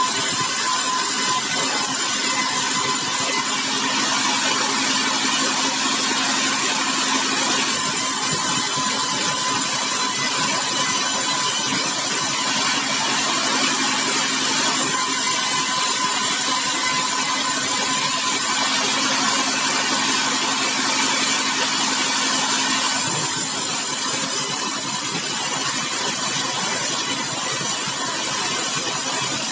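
Large sawmill running steadily while it saws bengkirai hardwood: a constant machine hum under a continuous whirring noise.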